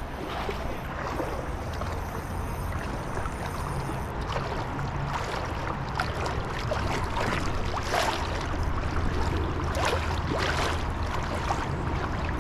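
River water running steadily with a low rumble underneath, and scattered short clicks from about four seconds in.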